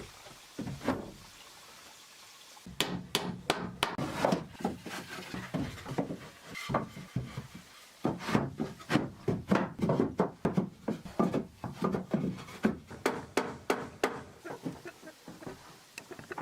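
Wooden knocks and clatter in an irregular run, starting about three seconds in after a single knock, typical of timber being hammered and worked.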